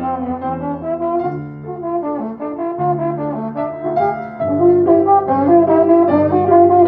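Brass ensemble playing music: several sustained notes together over a low moving bass line, getting louder about four and a half seconds in.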